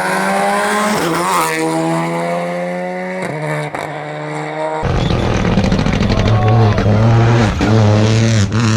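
Rally car engines at full throttle on a stage: one car's engine climbing steadily in revs, dipping briefly about a second in, then an abrupt change about five seconds in to a louder car whose revs dip and pick up again several times through its gear changes.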